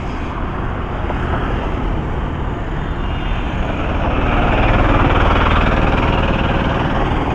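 Road traffic: a steady rumble of passing vehicles that swells about four to six seconds in, as a vehicle goes by.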